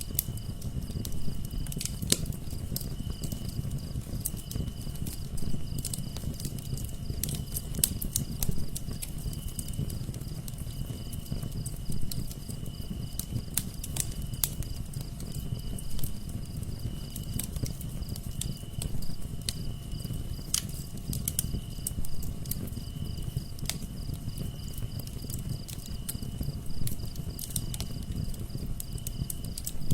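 Wood fire crackling in a fireplace: frequent sharp pops and snaps over a low, steady rumble. A cricket chirps alongside in an even, repeating pulse.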